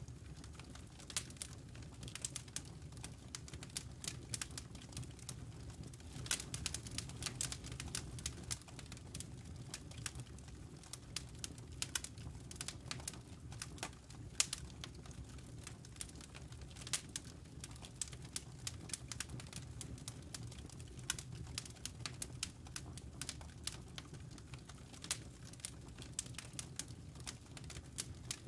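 Wood campfire crackling: a steady run of irregular sharp snaps and pops over a low, even rumble of burning.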